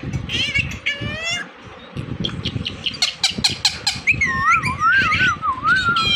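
Indian ringneck parrot calling: a few gliding squawky chirps in the first second or so, a quick run of sharp clicks around two to three seconds in, then a warbling whistle that rises and falls from about four seconds on.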